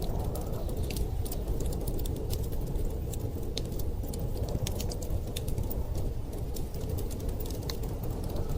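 Wood fire crackling in a fireplace, with many irregular sharp pops and ticks over a steady low rumble.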